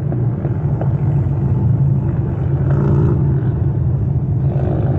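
Steady road and engine rumble heard inside a car cruising on the freeway.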